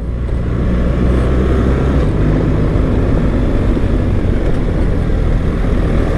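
BMW R 1300 GS's 1300 cc boxer-twin engine running steadily while riding a rough dirt road, under a steady rushing noise.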